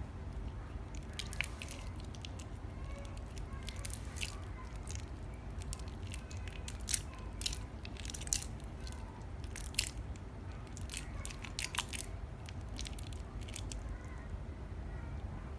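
Slime being handled, making irregular crisp crackles and clicks, with a few sharper ones about halfway through.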